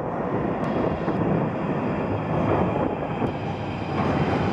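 London Underground train running, heard from inside the carriage: a steady rumble and rushing noise, loud enough to drown out voices.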